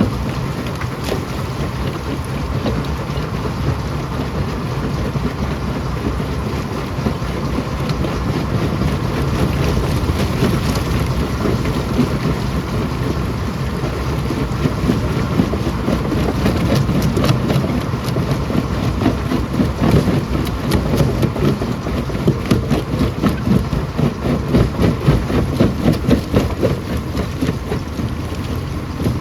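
Rock crusher running with a heavy continuous rumble, rocks knocking and cracking as they are crushed; the knocks come more densely and pulse harder near the end.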